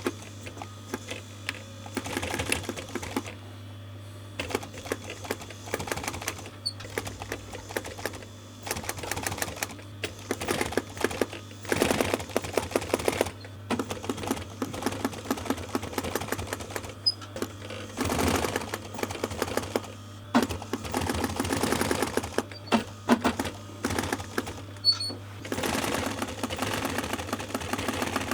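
Sewing machine stitching through a layered seat cover of leather, fabric and padding, running in short bursts of rapid needle strokes with brief stops between them, over a steady motor hum.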